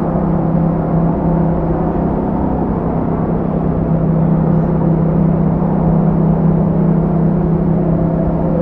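Yamaha MT-07's parallel-twin engine running steadily through an Akrapovic exhaust, its note holding at a nearly constant pitch.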